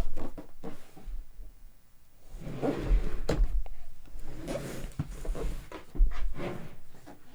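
A cardboard product box being handled and turned over, with several rustling, sliding scrapes, a couple of sharp knocks and low bumps.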